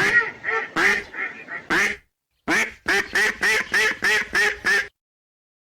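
Ducks quacking: a loose run of quacks, a short pause, then a fast, even series of about eight quacks that stops abruptly.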